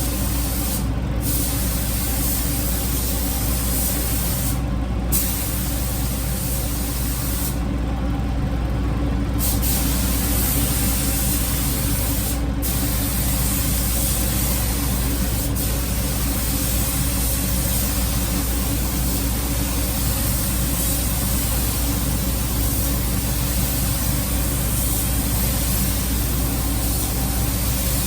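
Paint spray gun hissing steadily as clear coat is sprayed on a car panel, over a constant low hum. The hiss cuts out briefly about a second in, again near five seconds, for about two seconds near eight seconds, and near twelve seconds, as the trigger is let off between passes.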